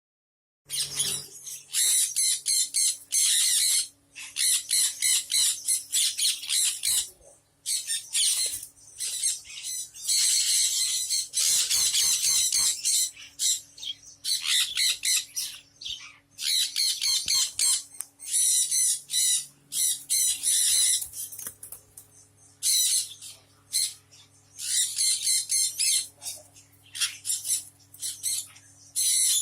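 Sun conure parrots screeching: harsh, high-pitched calls in rapid runs with brief pauses, over a faint steady low hum.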